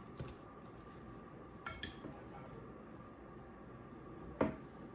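Two light clinks of kitchen dishware being handled, a faint ringing one and then a sharper knock near the end, over quiet handling sounds while celery is stuffed into a raw turkey.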